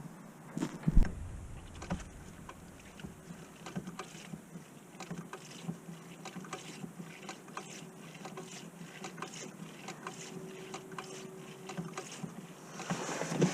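Scattered light clicks and knocks over a steady low hum, with a heavier thump about a second in.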